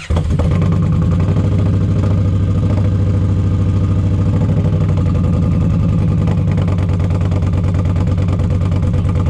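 Indian Challenger's V-twin with TAB Performance exhaust and Zombie baffles fires right at the start and settles into a steady, even idle. The exhaust note is really loud.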